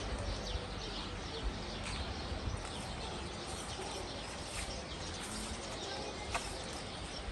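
Small birds chirping, many short high chirps repeated throughout, with a single click a little after six seconds.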